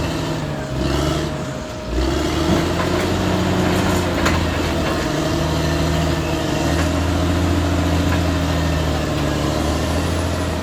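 Caterpillar D6R XL bulldozer's diesel engine running steadily. The engine dips briefly and picks back up about two seconds in, and there is a single sharp clank about four seconds in.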